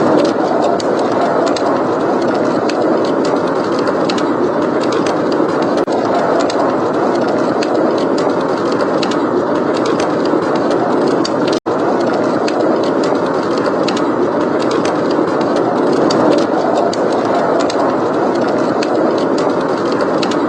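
Steady blizzard wind blowing, with a wood fire crackling in many small, quick snaps over it. The sound cuts out for an instant a little past the middle.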